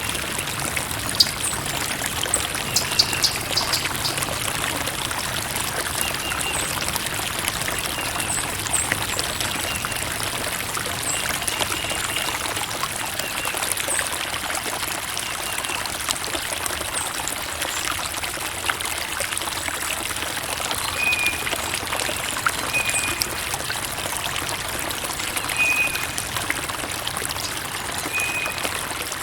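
Creek water running and trickling steadily, with short high notes here and there.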